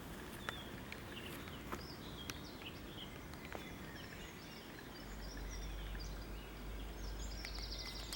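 Faint birds chirping, short scattered calls, over quiet outdoor background noise with a few small clicks; a low steady rumble comes in about five seconds in.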